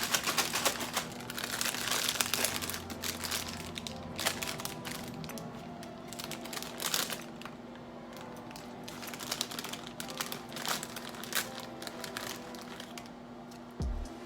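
Plastic snack bag of crispy cheese crackers crinkling and rustling as it is handled and opened, a dense run of sharp crackles that is loudest in the first few seconds.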